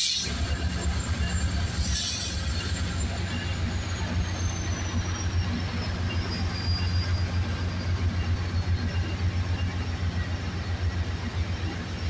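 Metrolink diesel locomotive running with a steady low throb as the train rolls past along the platform, bilevel coaches passing close by. A faint high squeal slowly falls in pitch midway.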